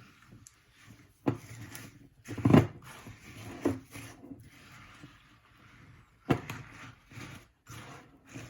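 Dry chow mein noodles being stirred into melted chocolate and peanut butter in a glass bowl: crunching and scraping, with several sharp knocks of the stirring utensil against the bowl.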